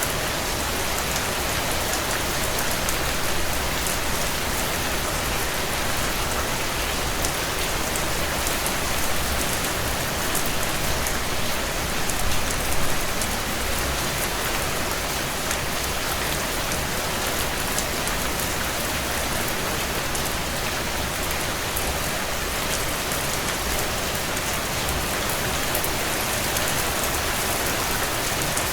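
Steady heavy rain on window panes: an even hiss with fine ticking of drops, briefly a little louder about twelve seconds in.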